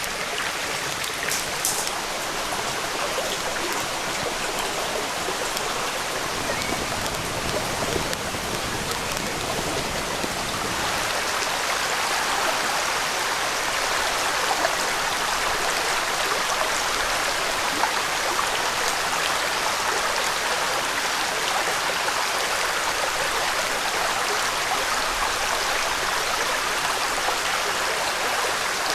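Steady rushing noise of running water, which grows louder and fuller about eleven seconds in.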